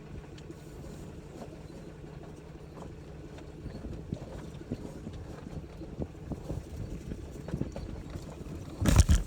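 Shale rocks grinding and popping under the tires of a Ram pickup with a truck camper, creeping slowly in four-wheel-drive low, irregular clicks and crunches over a steady low engine hum. A single loud thump near the end.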